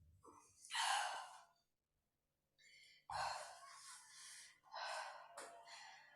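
A woman breathing hard, with about four soft, audible exhalations spread across a few seconds. She is catching her breath after a cardio and plyometrics block.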